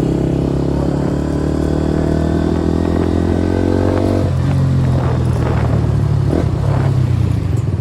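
KTM Duke 390 single-cylinder engine running on the move, its note rising gently for the first half, then dropping about halfway through as the throttle eases or a gear changes.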